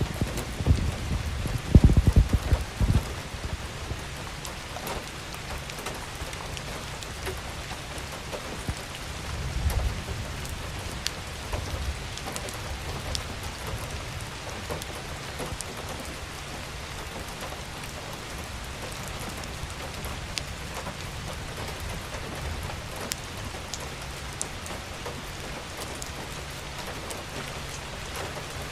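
Ice pellets (sleet) falling steadily, a constant hiss with scattered sharp ticks as the hard frozen drops strike and bounce. Low rumbling bumps come about two seconds in and again near ten seconds.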